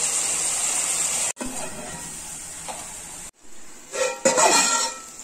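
Onions, green chillies and tomatoes sizzling in a steel pan over a low flame. About four seconds in come a couple of sharp metal clinks from the steel lid being handled.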